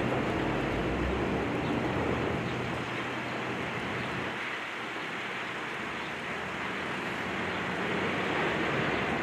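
Steady rumble of vehicles, with a low engine hum that fades out over the first few seconds.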